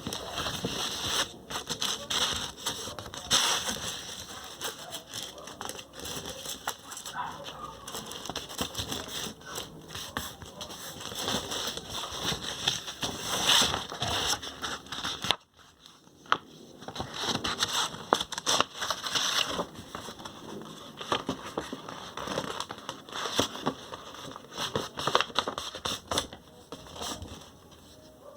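A sheet of paper being handled and folded, crackling and rustling as it is creased, with a brief pause about halfway through.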